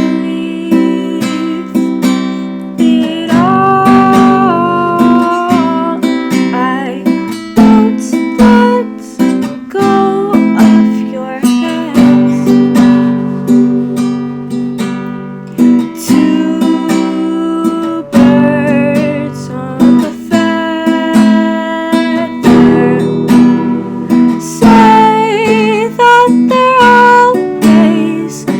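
Acoustic guitar playing in a steady rhythm, strummed and plucked, with a singing voice coming in at times, clearest near the end.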